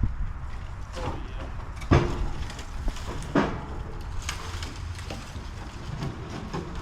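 A few sharp knocks and cracks, the loudest about two seconds in, over a low rumble of wind on the microphone.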